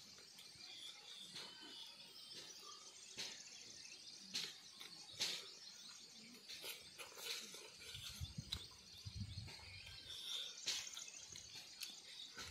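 Close-up eating sounds of someone eating by hand: soft chewing with scattered sharp mouth clicks and smacks. Faint bird chirps sound over a steady high hiss, with a brief low rumble about two thirds of the way through.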